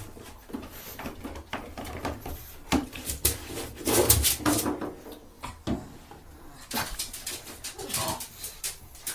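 A pug in a bathtub giving a few short whimpers among scattered knocks and clatters as it pushes at plastic shampoo bottles against the tub.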